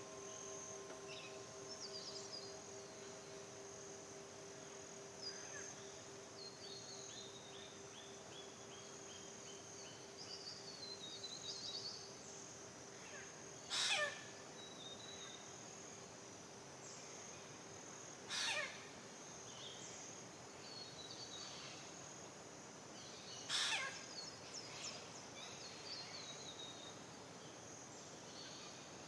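Forest birds chirping and trilling over a steady high hiss, one song running down in a falling series of notes, with three loud calls sweeping downward about four to five seconds apart. The low ring of a singing bowl fades out over the first several seconds.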